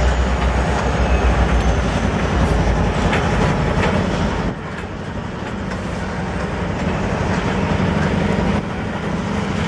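Freight train of covered hopper cars rolling past at speed: a steady rumble and rattle of wheels on the rails. The deep low rumble drops away about halfway through, leaving the rattle of the cars.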